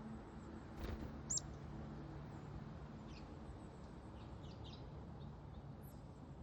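Short, high chirps from small backyard songbirds, scattered through, the loudest one about a second in and a quick run of several chirps past the middle, over a steady low background hum. A soft thump just before the loudest chirp.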